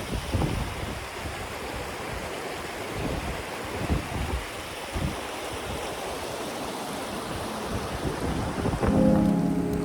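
Steady rush of creek water with wind buffeting the microphone in low thumps. Music comes in near the end.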